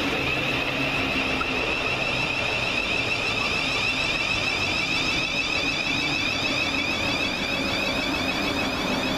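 Electric multiple-unit train running at the platform: a steady rumble with a constant high whine.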